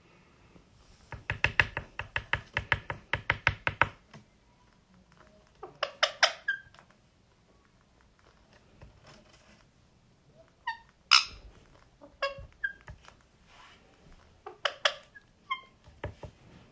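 Indian ringneck parrot in courtship display: a fast, even run of sharp clicks, about nine a second for nearly three seconds, then several short bursts of clicks and squeaky chirps.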